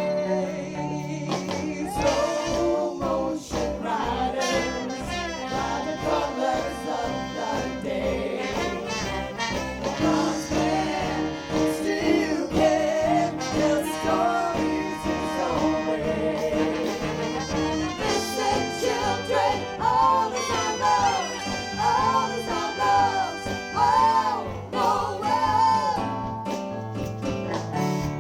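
A live band with a horn section playing an upbeat passage, trumpets and trombones carrying the melody over drums and bass.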